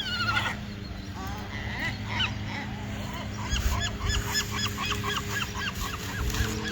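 Seagulls calling: a few scattered squawks, then from about three and a half seconds in, a long rapid series of short yelping calls, about four a second.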